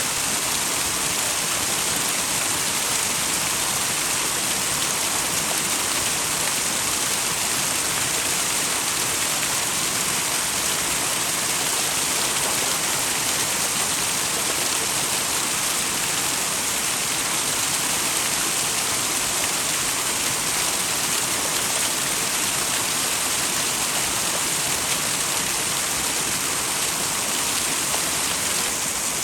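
Small twin waterfall pouring into a mountain stream: a steady, even rush of falling water, bright and hissy, with no break or change.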